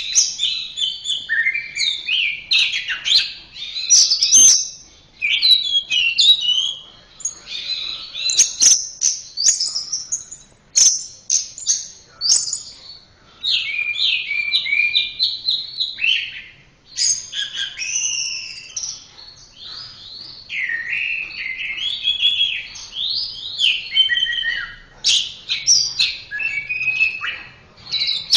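Orange-headed thrush (anis merah) singing a continuous, varied song of quick chirps and whistled rising and falling notes, in phrases broken by brief pauses.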